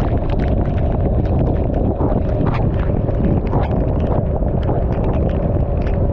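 Wind rumbling on the microphone of a motorcycle riding through heavy rain, with irregular sharp ticks of raindrops striking close by.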